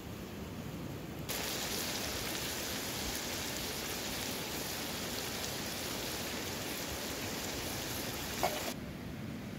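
Lamb liver frying in a pot, a steady sizzling hiss that starts about a second in and stops shortly before the end. Near the end there is one short clink.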